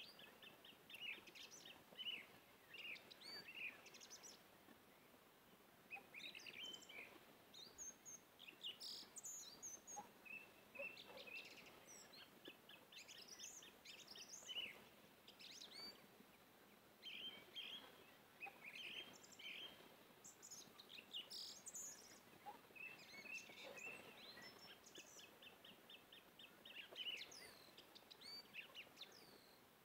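Faint birdsong: many short chirps and quick trills from small birds, over a light background hiss.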